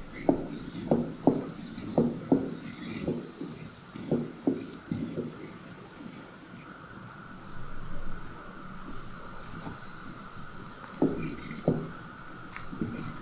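Kitchen work during cooking: a run of dull knocks, about two a second for the first five seconds, then a quieter stretch and a few more knocks near the end, over a faint steady hum.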